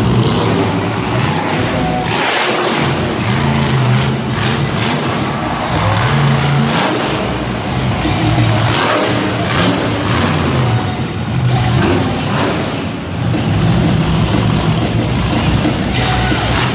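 Monster truck engine revving up and down repeatedly, with music playing over the arena sound system.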